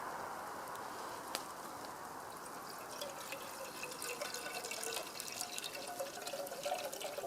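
Water being poured into a camp pot, a steady trickling stream that turns to splashing and dripping, with a faint note that rises slowly from about three seconds in as the pot fills.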